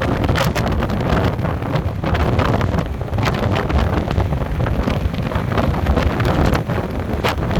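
Strong storm wind blasting across a phone's microphone: a loud, gusty low rumble broken by frequent sharp crackles as the gusts buffet the mic.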